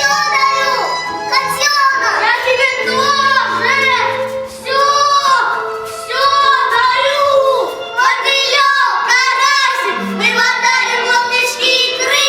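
A child singing a song over instrumental accompaniment, in long held notes with vibrato.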